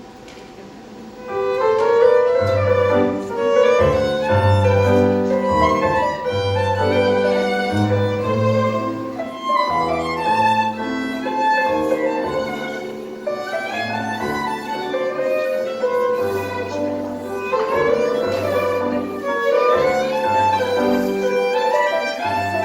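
Live tango band music led by violin over a steady line of low bass notes, starting about a second in.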